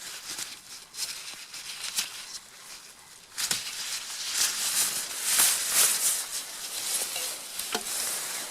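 Close rustling and scattered clicks of fabric and gear being handled, quieter at first and busier from about three and a half seconds in.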